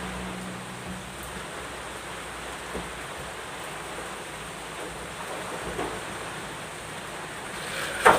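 Steady rain falling, with a few faint knocks and one sharp, loud knock near the end.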